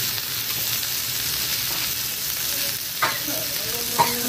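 Potato and eggplant pieces sizzling in oil in a steel kadai over a low gas flame, a steady hiss. Near the end come two sharp metallic clinks about a second apart, each with a brief ring.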